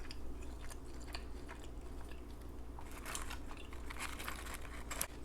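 A person chewing fast food, a run of small wet clicks and smacks, busiest a little past halfway.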